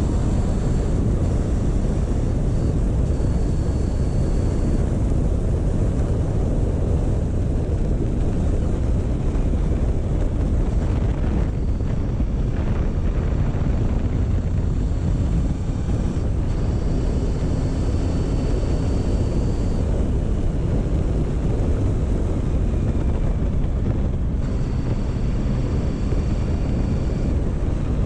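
Motorcycle engine running steadily at a slow riding pace, heavily overlaid by wind rumble on the microphone.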